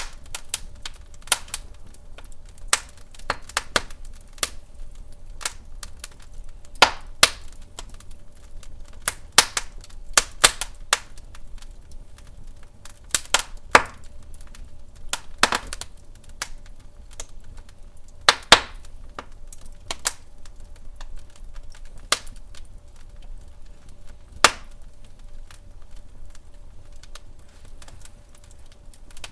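Wood fire in a fireplace crackling, with sharp pops at irregular intervals, sometimes several in a second, over a faint steady hum.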